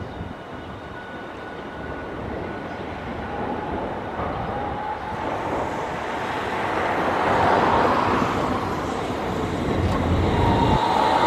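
Hiroshima Electric Railway streetcar approaching, its running noise growing steadily louder. A steady high whine comes in about three seconds in and is strongest near the end.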